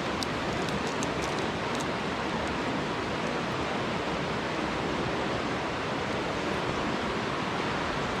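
Mountain stream water rushing steadily over rocks, an even hiss with no change.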